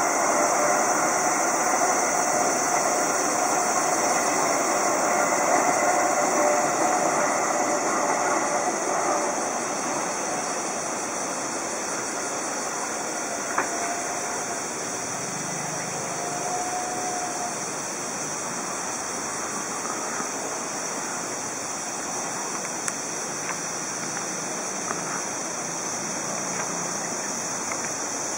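Distant electric train running along the line below, louder for the first several seconds and then fading to a steady rumble. A steady high-pitched hiss runs underneath, and two short whistle-like notes come about halfway through.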